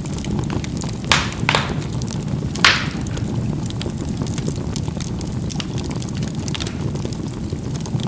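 Burning charcoal in a fireplace: a steady low rumble of combustion with small crackles, and three sharp pops of the coals bursting in the first three seconds, the last the loudest.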